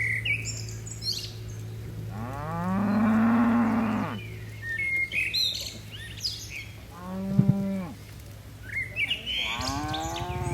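Cattle mooing: a long moo about two seconds in, a shorter one around seven seconds, and another starting near the end. Small birds chirp between the calls.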